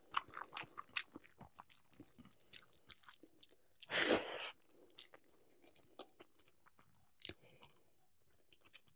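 Soft, close-up chewing of a rice-and-curry meal: many small wet mouth clicks and smacks. About four seconds in there is a short, louder rush of noise.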